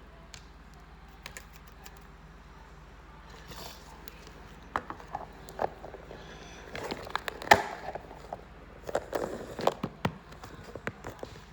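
Handling noises from a package being unboxed: a run of sharp taps, clicks and crinkles that starts about halfway through, the loudest knock about two thirds of the way in.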